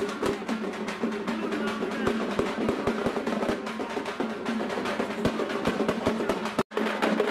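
Drums beaten in a fast, dense rhythm with roll-like strokes; the sound cuts out for an instant near the end.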